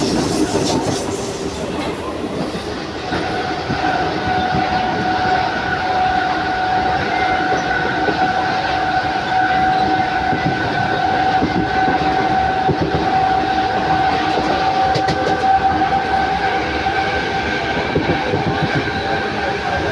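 Mumbai suburban electric local train running on the rails, with a steady high whine that sets in about three seconds in and holds.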